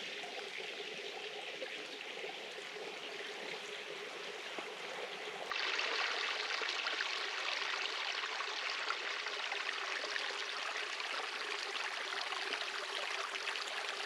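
Steady rush of a flowing stream, which turns abruptly louder about five and a half seconds in.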